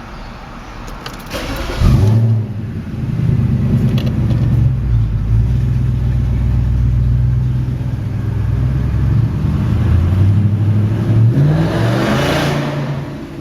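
A 2001 Audi S8's 4.2-litre V8 runs loud and unmuffled: the exhaust has come apart between the catalytic converters and the mufflers, so the mufflers are bypassed. The sound jumps up suddenly about two seconds in, holds steady, then rises in pitch as the engine revs near the end.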